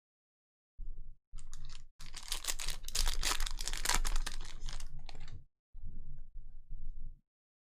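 Foil trading-card pack wrapper being torn open and crinkled, a dense crackling that lasts about three and a half seconds, with quieter low rustles of handling before and after.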